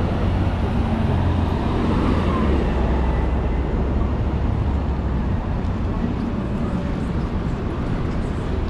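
Street traffic: motor vehicles running close by, with a steady low engine rumble.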